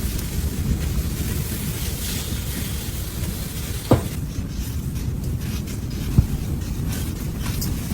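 Steady wind noise buffeting the microphone, with two sharp knocks, about four and six seconds in.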